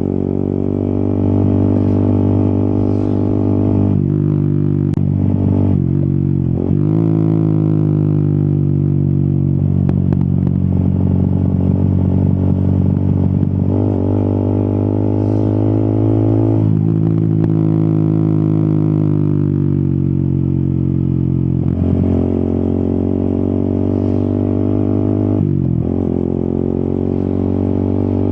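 Yamaha XSR 155's single-cylinder engine running under way, heard from the rider's seat. It holds steady stretches of pitch that step up and down several times as the revs change between shifts.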